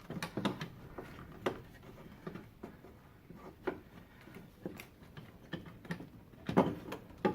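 Irregular clicks and knocks of hard plastic as a BMW E46's DISA valve is pushed and wiggled back into place, catching on a plastic part in the way. The loudest knocks come near the end.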